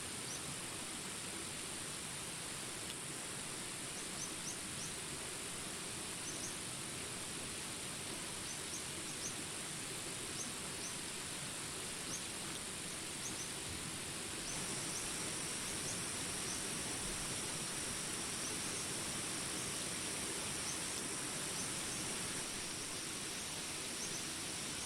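Jungle ambience: a steady hiss of rain under a constant high insect drone, with many short high chirps scattered throughout. About halfway in a second steady high insect tone joins and stops again near the end.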